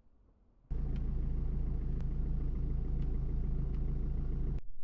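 Car engine idling: a steady, even low hum that starts abruptly under a second in and cuts off abruptly near the end.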